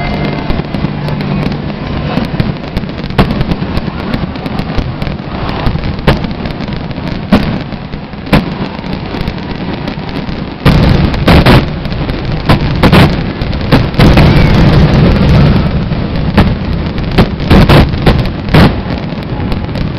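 Aerial fireworks bursting over and over, a continuous crackle broken by sharp reports. About halfway through, the bursts come thick and much louder in a dense barrage.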